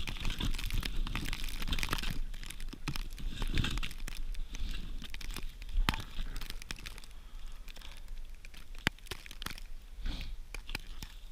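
Dry tinder and small twigs being crumpled, torn and snapped by hand while fire material is prepared: a dense run of crinkling and tearing at first, then sparser sharp snaps.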